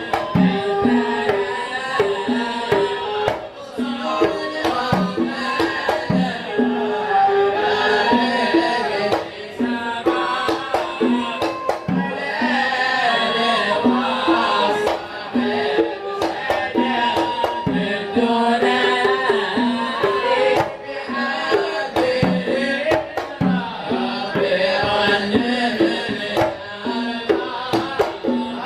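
Hadhrami sama' devotional singing: voices sing a melody over hand drums beating a steady rhythm.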